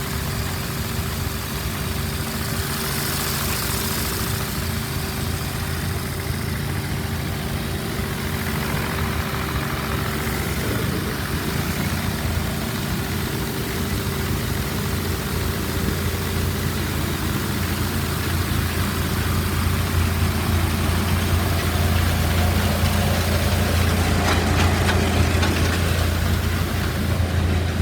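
Machinery running steadily with a low hum, the hum growing louder about two thirds of the way in.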